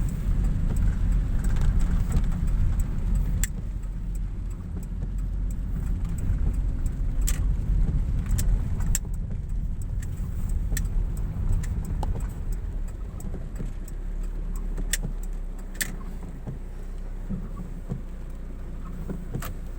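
Car driving on the road: a steady low rumble from the engine and tyres, with scattered sharp ticks. It gets quieter about two-thirds of the way in.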